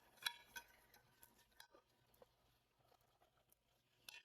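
Near silence, broken by a few faint, short clicks and light taps of objects being handled, the clearest two within the first second and one more near the end.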